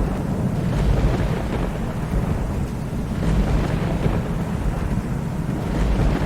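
Steady heavy rain with thunder rumbling low underneath; the rumble swells and fades a few times.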